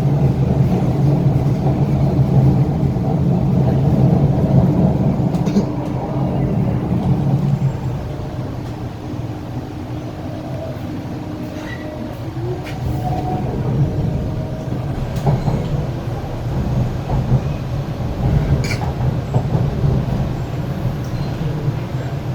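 Korean-built Hyundai Rotem R-Train electric multiple unit running, heard from inside the car: a steady low rumble of wheels and running gear with a few sharp clicks. It eases off about a third of the way in, then builds up again.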